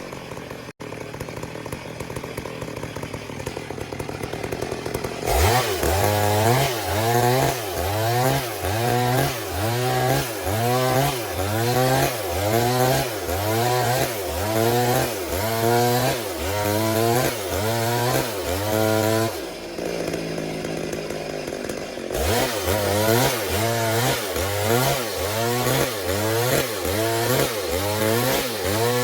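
Stihl MS 382 chainsaw running under load while ripping a log lengthwise in chainsaw milling. After a steadier stretch it gets louder, its engine note rising and falling in an even rhythm a little faster than once a second, eases off briefly about two-thirds through, then goes back into the cut.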